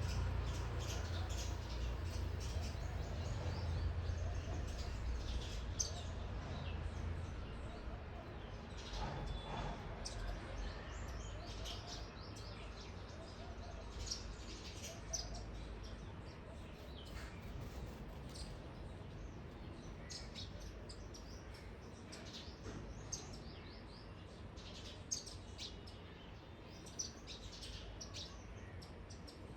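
Small garden birds chirping in short, frequent calls, over a low rumble that fades over the first several seconds.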